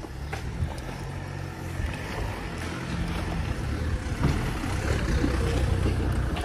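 A car's engine running close by, a steady low hum that grows louder as the car approaches.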